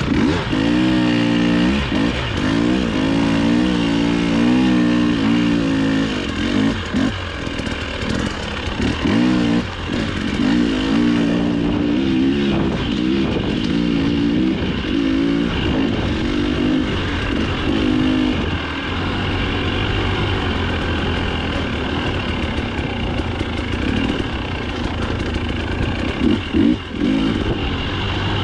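Dirt bike engine revving up and down with the throttle, pitch rising and falling many times over the first eighteen seconds or so, then running more steadily at lower revs.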